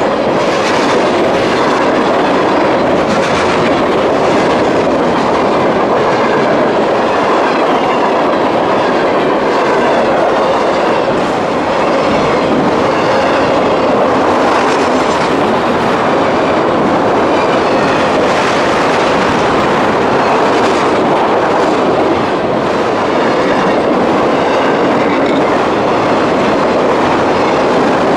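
Freight train cars rolling past: a steady rumble and rail noise, with wheels clicking over rail joints at irregular intervals.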